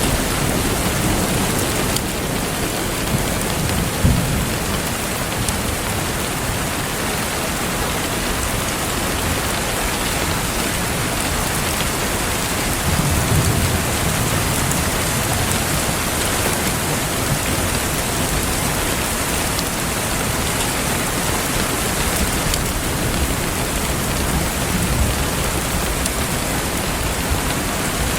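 Steady heavy rain falling, with low rumbles of thunder: a short sharp one about four seconds in and a longer roll around the middle.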